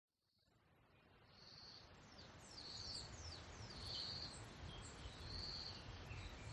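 Faint birds chirping outdoors: short high chirps repeated about once a second, with a few quick falling notes, over a low steady background rumble. The sound fades in from silence about a second in.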